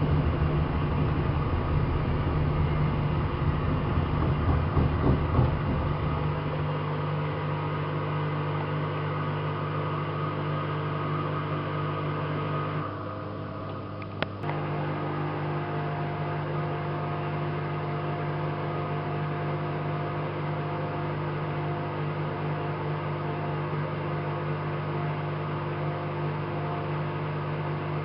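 AEG Lavamat 5210 washing machine running mid-cycle, its motor humming steadily. The motor stops for about a second and a half around halfway through, then starts again after a click.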